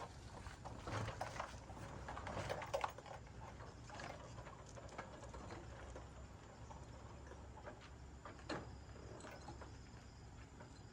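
Faint, scattered light clicks and knocks, most frequent in the first three seconds, over a low steady hum.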